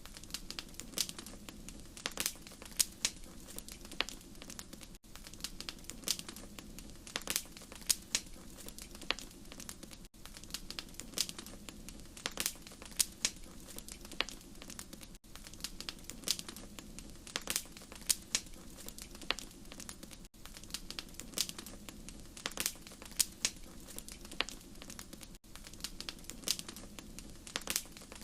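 Wood fire crackling, with sharp irregular pops and snaps over a steady low rumble of flame. It is a short recording looped about every five seconds, with a brief gap at each seam.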